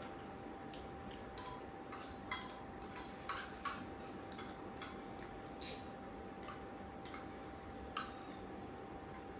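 Eating at the table: scattered small clicks and clinks of utensils and plates, a handful of sharp ones a couple of seconds apart, over a steady faint hum.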